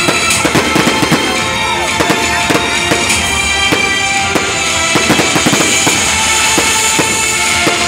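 Aerial fireworks exploding in quick succession, many sharp bangs and crackles close together, with music playing underneath.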